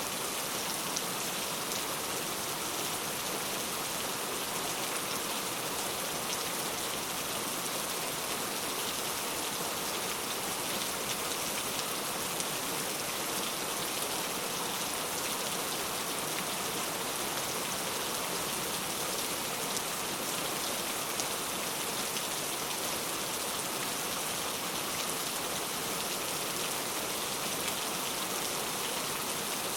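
Steady rain falling, an even hiss of many small drops pattering on a surface, with no thunder or let-up.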